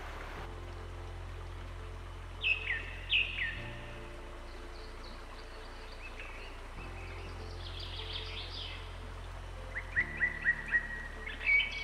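Birds chirping: two sharp falling calls, scattered fainter chirps, then a quick run of short chirps near the end. Underneath runs soft background music of sustained low chords.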